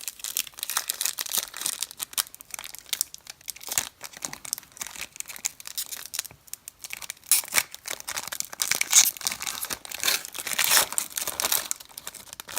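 A trading card pack wrapper crinkling and tearing as it is opened by hand: a dense run of crackles, louder in spells about seven and ten seconds in.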